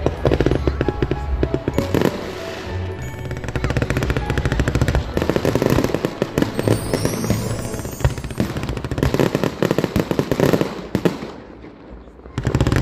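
Fireworks bursting and crackling in rapid strings over music, with a short rising whistle about halfway through.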